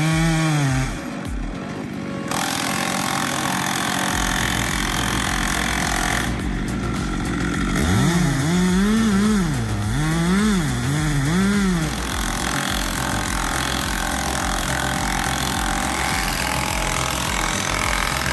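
Stihl MS 462 C-M chainsaw, a 72 cc two-stroke, running. About halfway through, the engine pitch rises and falls four times as the throttle is opened and eased.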